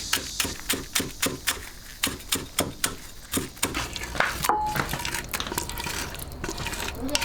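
Rhythmic clatter of a kitchen utensil striking cookware, about three to four strokes a second, loosening into irregular knocks after about three and a half seconds.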